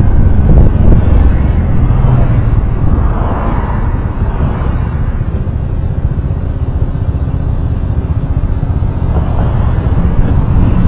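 Road vehicle noise while riding or driving in traffic: a steady, heavy low rumble that eases a little in the middle and comes back up near the end.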